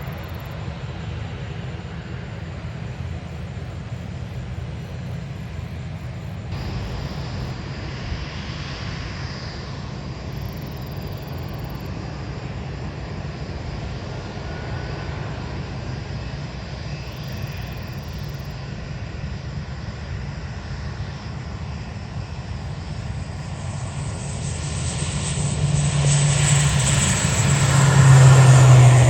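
Jet airliner's engines: a steady distant rumble that swells into a loud roar near the end as the aircraft passes close.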